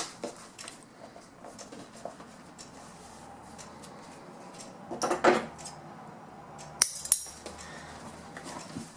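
Handling sounds from working with seat cover pieces and tools on a bench: a brief rustle about five seconds in and two sharp clicks a little after seven seconds, over a faint low hum.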